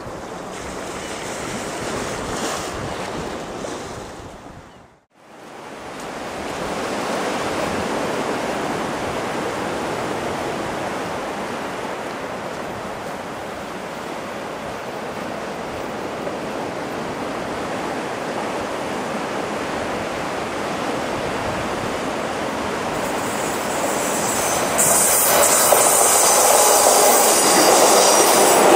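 Surf and wind along the sea wall, cutting out briefly about five seconds in. A diesel multiple unit then approaches and grows steadily louder, and in the last few seconds it passes close with the rumble of its wheels on the rails.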